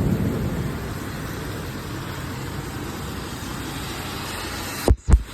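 Rolling thunder fading out over the steady hiss of heavy rain, then three short loud thumps near the end.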